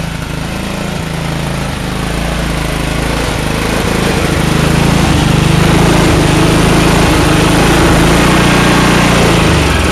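Tecumseh 9-horsepower snowblower engine in a Massey Ferguson race tractor, running cold through a straight pipe with a small Briggs muffler. It gets louder from about two seconds in and then holds steady.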